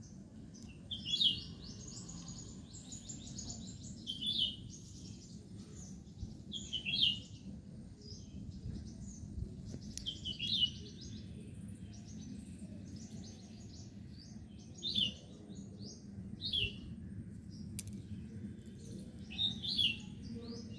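A small bird calling repeatedly: about seven short, high chirps, each falling in pitch, a few seconds apart, over a steady low background rumble.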